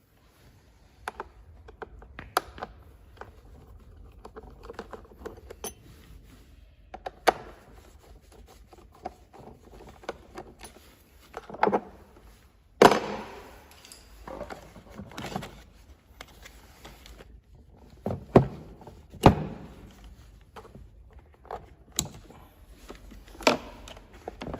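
Irregular clicks, taps and knocks from small hard objects being handled, with a few louder thunks, the loudest about halfway through, over a faint low hum.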